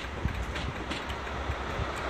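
First Great Western passenger coaches rolling past at low speed: a steady rumble with a run of wheel knocks over the rails.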